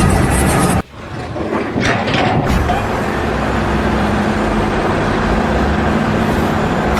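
A motor vehicle or machine engine running steadily, after an abrupt cut about a second in, with a few short knocks soon after.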